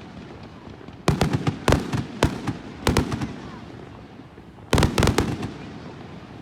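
Fireworks going off in clusters of sharp bangs: a rapid run about a second in, single cracks through the middle, and another quick cluster about five seconds in, each trailing off in a rumble.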